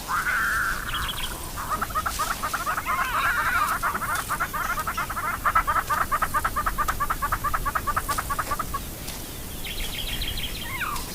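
A bird calling: a short call, then a long run of rapid, evenly repeated notes lasting about seven seconds, followed by a few brief chirps and a falling note near the end.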